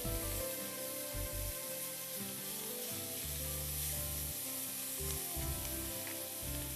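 Prawns and onions sizzling in oil in a wok over high gas heat, being sautéed and stirred with a silicone spatula. The hiss is steady throughout, with faint background music.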